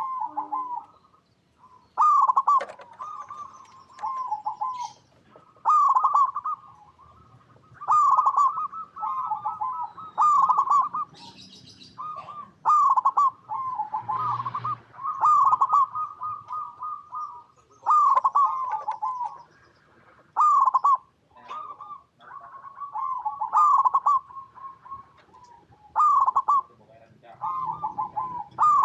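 Zebra dove (perkutut) singing: short, rhythmic cooing phrases repeat every two to three seconds.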